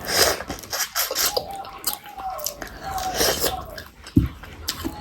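Close-miked wet chewing and lip-smacking of a mouthful of curry and rice: many short, moist clicks and smacks, with a heavier knock a little past four seconds in.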